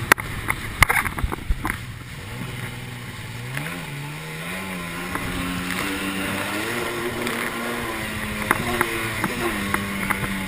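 Sea-Doo XP jet ski's 951cc two-stroke twin running, its pitch climbing and settling several times with the throttle. Sharp knocks in the first two seconds, and a few more near the end.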